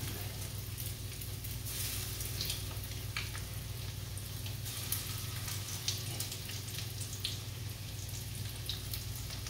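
Panko-breaded yellowtail kingfish pieces shallow-frying in oil in a frying pan: a steady sizzle with scattered crackles and pops, over a steady low hum.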